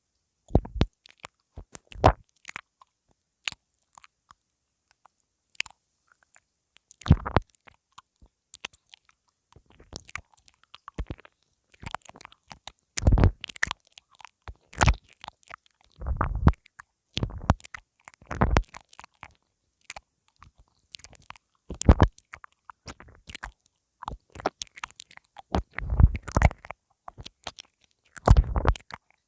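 Mouth nibbling on a pin (lavalier) microphone: irregular close-up lip and teeth clicks with muffled thuds against the mic. They are sparse at first and come several a second after about nine seconds.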